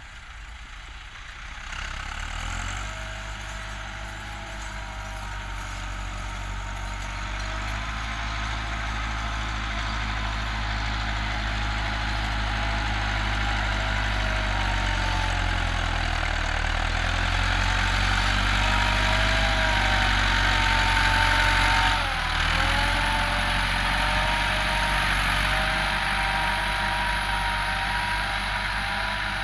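Massey Ferguson 385 tractor's four-cylinder diesel engine running steadily, coming in about two seconds in and growing gradually louder. The engine note sags briefly about halfway through and again later.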